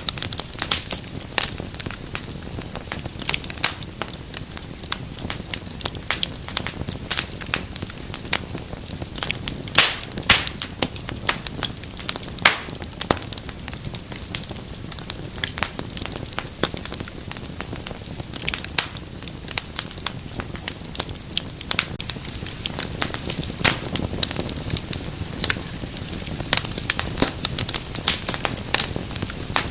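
Wood fire burning in a fireplace: continuous crackling with frequent sharp pops over a low steady rush of flame. The loudest pops come about ten and twelve seconds in.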